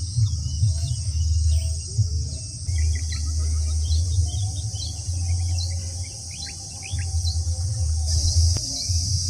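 Outdoor ambience of birds chirping over a steady high buzz of insects such as crickets, which grows louder near the end. Wind gusts buffet the microphone with an uneven low rumble.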